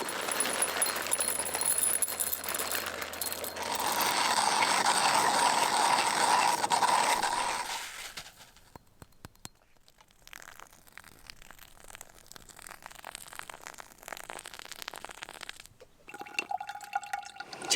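Camp coffee being made: a rushing pour of water for the first several seconds, then quieter clinks and scrapes of cups and cookware.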